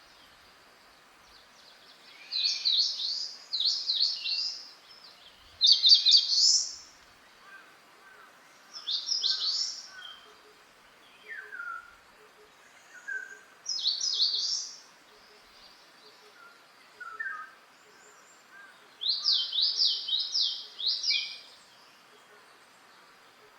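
Wild songbirds singing: one bird repeats short, rapid phrases of high sweeping notes every couple of seconds, while fainter, lower calls of another bird come in between, over a steady faint background noise.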